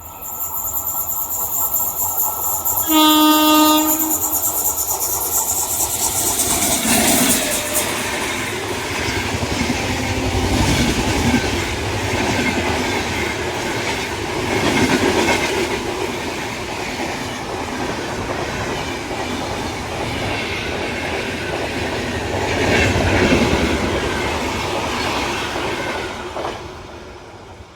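An Indian Railways train sounds its locomotive horn in one blast of about a second, then runs past at speed with rhythmic wheel clatter over the rail joints. The passing rumble goes on for over twenty seconds and fades near the end.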